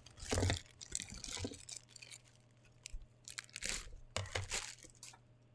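Packaging crinkling and rustling in several short bursts, with quieter gaps between them.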